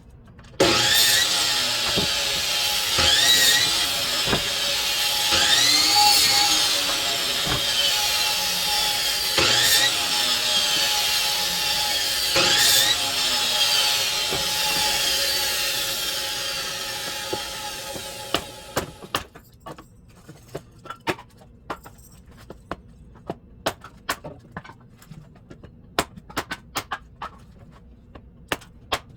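A power saw cutting firewood, with the pitch sweeping as the blade works through the wood every few seconds; the saw then winds down over several seconds. Scattered light knocks and clicks follow.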